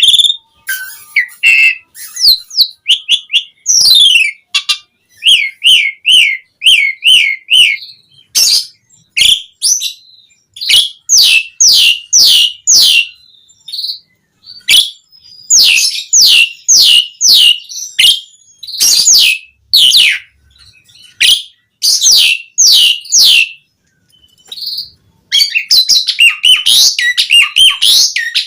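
Asian pied starling (jalak suren) singing a long, vigorous song. It is made of quick runs of downward-sliding whistles with clicky notes between them, breaks off briefly, then goes into a dense chattering stretch near the end.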